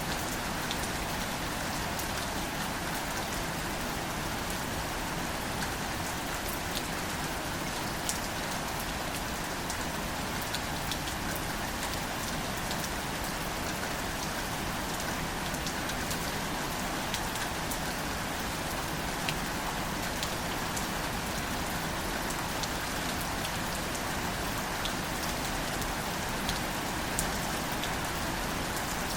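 Gentle, steady rain falling on wildflowers (greater celandine) and their leaves, with individual drops ticking sharply now and then.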